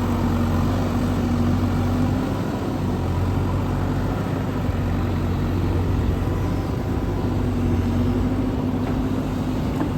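Heavy diesel engine running steadily at a constant speed, a low hum with a steady tone over it.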